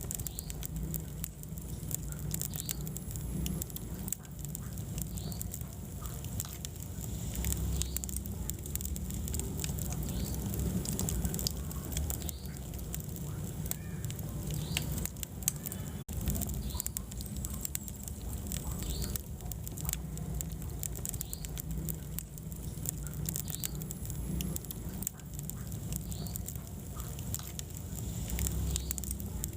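Wood fire burning in a fireplace: dense, irregular crackles and pops over a low, steady rumble of the flames, with occasional faint short whistles.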